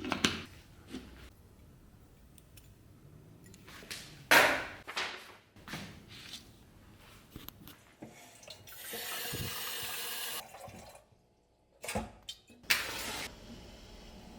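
Water running briefly, about two seconds in the middle, between scattered knocks and clatter of objects being set down and handled.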